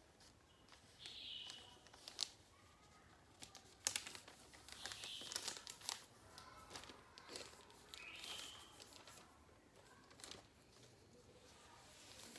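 A sheet of paper being folded and creased by hand into a paper airplane: faint crinkling and rustling, with a few sharp crackles about two and four seconds in.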